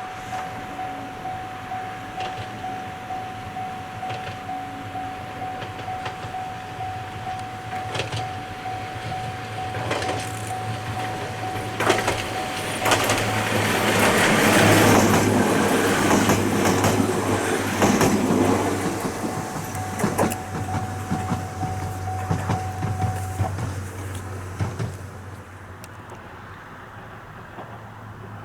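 Ohmi Railway electric train passing close by. Its wheels click over rail joints, and the running noise builds to a peak about halfway through, then fades. Throughout, a steady pulsing tone sounds and stops a few seconds before the end.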